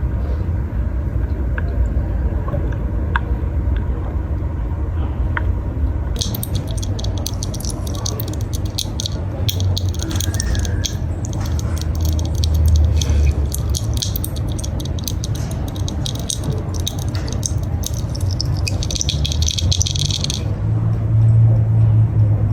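Amplified sound from inside a tree played through loudspeakers: a steady low rumble, with dense crackling and clicking that starts about six seconds in and cuts off suddenly a couple of seconds before the end.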